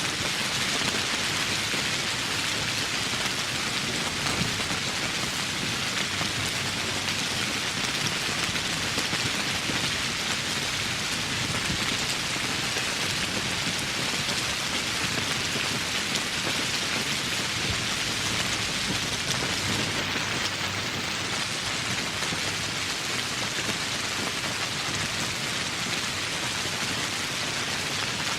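Steady tropical rain falling, an even, unbroken hiss.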